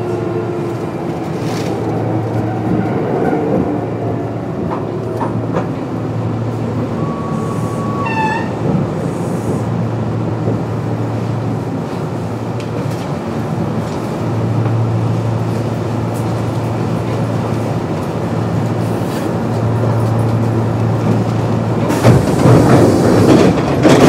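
Kintetsu 8600 series electric train with field-phase control running on the rails as it nears a station, wheels rolling steadily and the motor whine falling in pitch in the first few seconds. A louder burst of rolling noise comes near the end.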